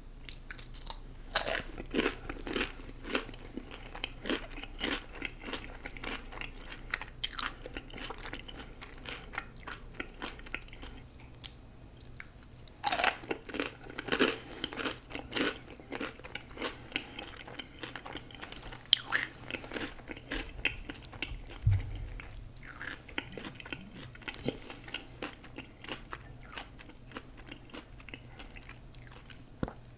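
Close-miked eating sounds: a person biting and chewing food, with crisp crunching that comes in bursts of rapid irregular crackles, heaviest about a second in, around halfway and again about two-thirds through. A single low bump is heard about two-thirds of the way through.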